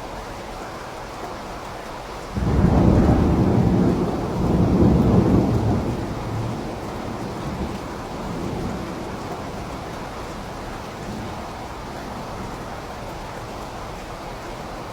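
Steady rain with a clap of thunder a couple of seconds in: a sudden deep rumble that swells twice, then fades slowly back into the rain.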